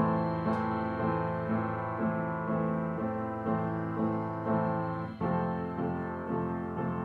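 Instrumental intro of a song, piano notes played in a steady, even pattern, with a brief break about five seconds in.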